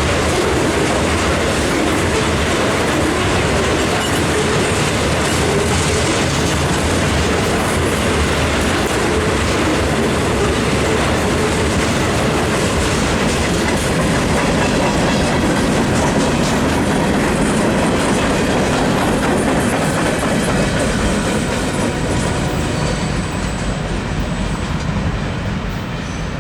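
Freight cars of a loaded rock train rolling past, their wheels clicking over rail joints in a steady clatter that eases off near the end.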